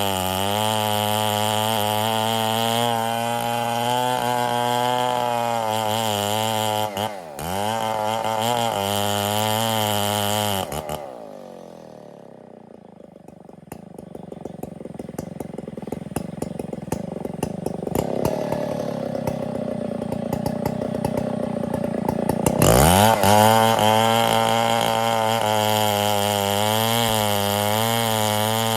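Stihl 070 two-stroke chainsaw running at high revs, dipping for a moment about seven seconds in. Around eleven seconds it drops back to a low idle for about ten seconds, then is revved sharply back up to full throttle.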